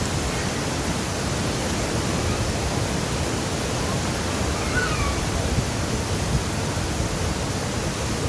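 Waterfall water rushing and splashing in a steady, loud roar of noise.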